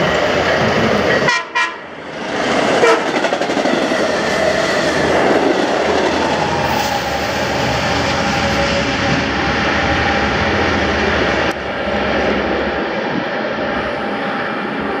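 Long Island Rail Road push-pull train passing close by, pushed by an EMD DM30AC dual-mode locomotive: steady heavy train noise with wheels clattering over the rails and a train horn sounding partway through. The noise dips briefly about one and a half seconds in and fades slowly near the end as the train draws away.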